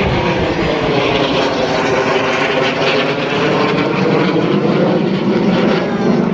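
Aircraft flying past low overhead, its engine noise loud and steady throughout.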